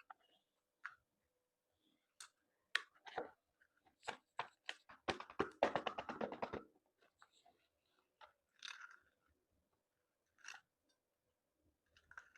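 Close-miked eating of seafood: scattered crisp bites and chewing, with a dense run of crunching about five seconds in that lasts a second and a half.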